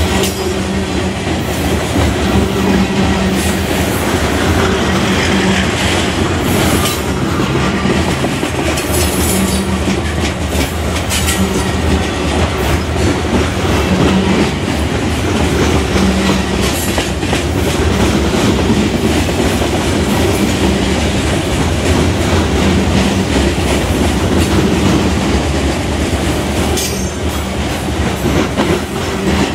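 Freight train of covered hopper cars rolling past close by: a steady rumble of steel wheels on rail, with a continuous run of clicks as the wheels cross rail joints.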